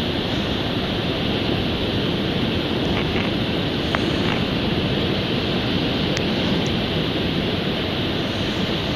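Ocean surf washing onto a beach: a steady, unbroken rush of waves with no single crash standing out.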